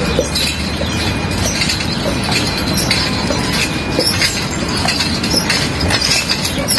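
Shod hooves of a draft horse clopping on asphalt as it pulls a carriage toward the camera and past, a quick uneven run of sharp clacks.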